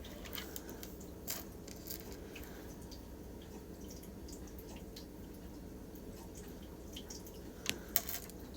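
Small polished crystal stones clicking and tapping against each other as they are handled, in scattered light clicks with a couple of sharper ones near the end, over a steady low hum of room noise.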